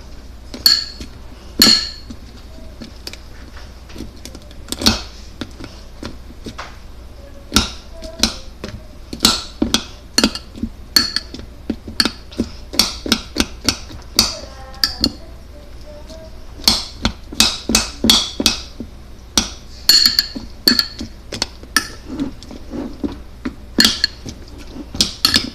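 A metal utensil clinking and tapping against a bowl of microwaved ramen noodles, many sharp, irregular clinks spread through the whole stretch.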